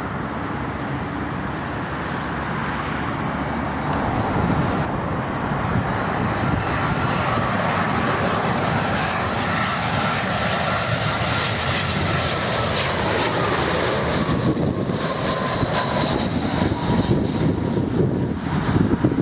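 Jet airliner's engines passing, a steady rush with faint high whining tones that slowly drift in pitch. The sound grows louder a few seconds in and becomes more uneven near the end.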